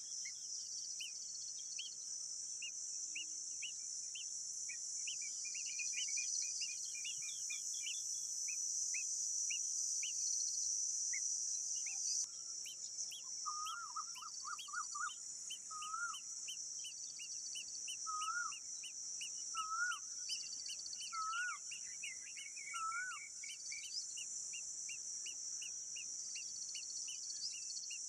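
Eurasian golden oriole singing short fluting phrases, about seven of them a second or two apart from around halfway through. Under it runs a steady high-pitched insect drone, the loudest sound, with many short high chirps throughout.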